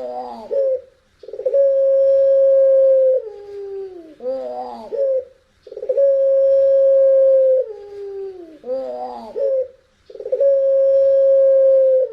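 Puter pelung dove cooing: a long, steady, drawn-out note that steps down in pitch, then a quick tumbling run of gliding notes. The call repeats about every four and a half seconds.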